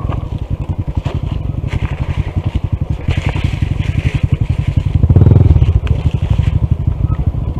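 Honda CT125's single-cylinder engine running with an even, rapid pulse, getting louder for a moment about five seconds in.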